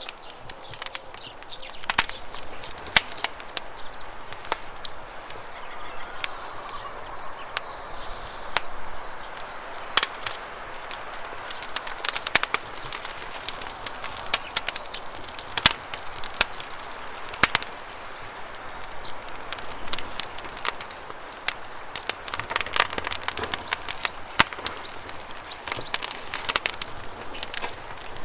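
Campfire wood crackling, with sharp irregular pops over the steady rush of river water. A bird gives a short high trill about six seconds in and again about fourteen seconds in.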